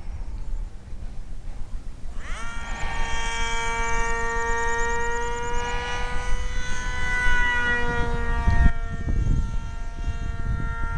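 Small electric RC plane's 1800KV brushless motor and 6x4 propeller spooling up with a quick rising whine about two seconds in, then holding a steady high whine that drifts slightly in pitch as the plane flies. Low rumbling noise on the microphone runs beneath it and grows louder near the end.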